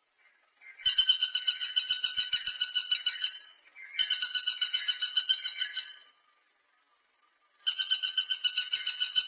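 Woodpecker calling: three bouts of rapid repeated high notes, about eight a second, each bout lasting two to three seconds with short pauses between.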